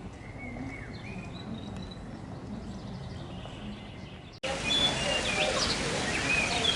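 Birds chirping over outdoor background noise. The noise jumps abruptly much louder about four seconds in, and the chirps go on over it.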